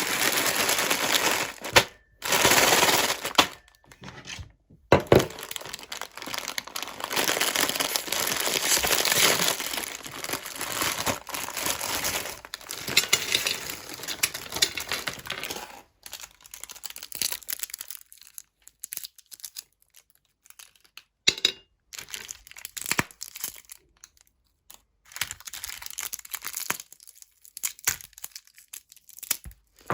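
Hard candy cracking and crunching in a meat grinder: dense, irregular crackling for the first half with a few short breaks, then sparser cracks and clicks.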